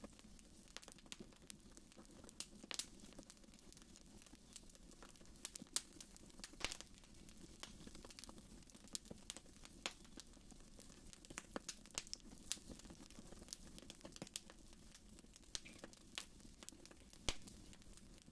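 Faint wood fire in a fireplace crackling, with irregular sharp pops; two louder pops come about seven and seventeen seconds in.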